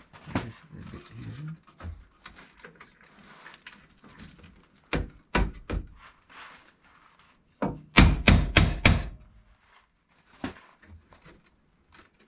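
Sharp knocks on sheet steel as a panel is knocked into place: three strikes about five seconds in, then a quick run of about five heavier blows about eight seconds in.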